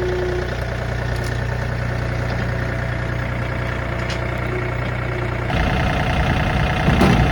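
Engine running steadily, then louder and rougher from about five and a half seconds in.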